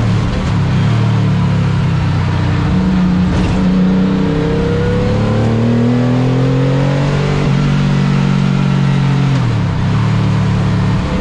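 Car engine running hard under acceleration, over steady road and wind noise. Its pitch climbs for several seconds, drops suddenly at a gear change about seven and a half seconds in, holds, then dips briefly near the end before picking up again.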